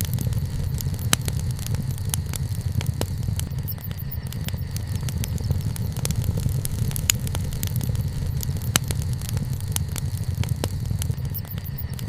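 Wood bonfire burning: frequent sharp crackles and pops at irregular intervals over a steady low rumble.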